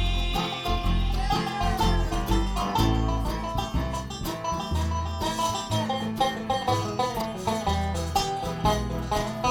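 Live bluegrass band playing an instrumental break: fast picked banjo notes over guitar and a walking bass line.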